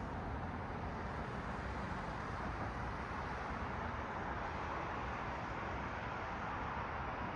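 Steady road traffic: a continuous hiss of tyres and a low engine rumble from cars on a city street, with no single pass-by standing out.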